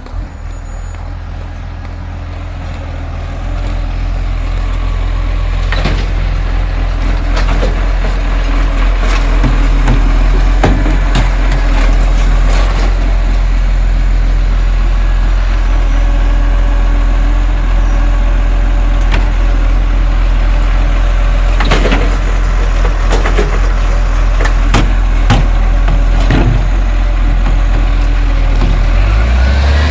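Garbage truck's engine running with a steady low drone that grows louder over the first few seconds, with scattered knocks and clatters, and a rising whine right at the end.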